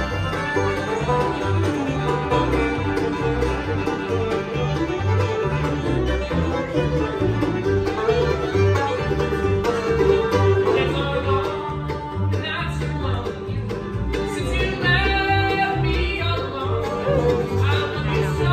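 Bluegrass band playing, the banjo prominent over guitar and a steady two-beat bass line, with bowed fiddle tones coming forward about twelve seconds in.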